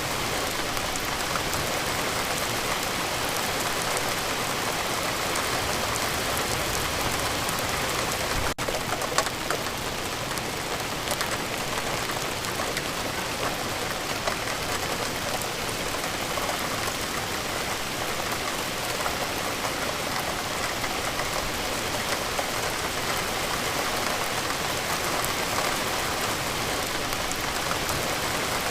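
Steady rain falling, an even hiss of drops with no change in intensity, with a momentary dropout about eight and a half seconds in.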